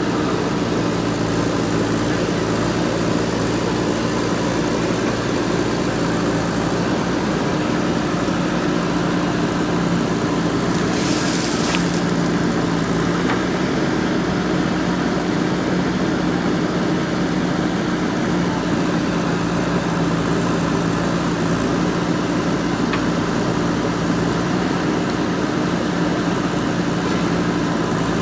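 JCB 3DX backhoe loader's diesel engine running at a steady speed, with a brief hiss about eleven seconds in.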